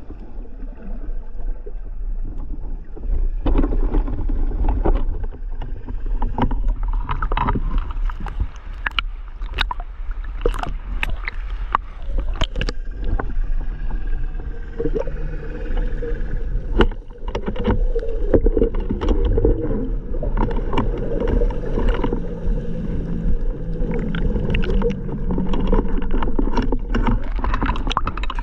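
Water sounds: a steady low rumble with many sharp clicks and a gurgling, wavering hiss.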